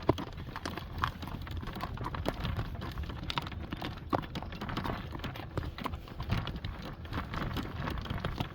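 Horse's hooves clip-clopping on a caliche gravel road at a fast walk, as irregular hard knocks.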